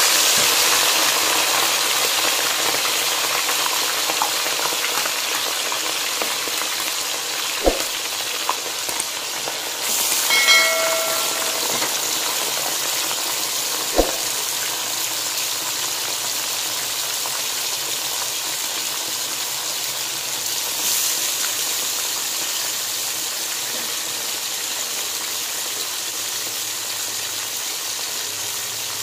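Raw chicken pieces sizzling in hot oil in a karahi: a loud, steady frying hiss that slowly eases. A couple of sharp knocks and a short pitched sound break through around the middle.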